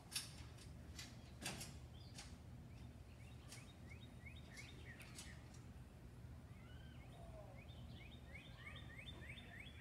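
Faint birdsong: quick runs of short, falling high chirps with a few lower curved notes, over a low steady hum. A few sharp clicks in the first two seconds are the loudest sounds.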